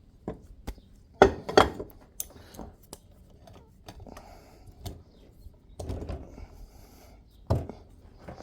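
Knocks and clatter of tools and metal parts being handled at a workbench during bearing work. Two sharp, loud knocks come about a second in, with lighter clicks scattered through, a brief rustle around six seconds and another loud knock near the end.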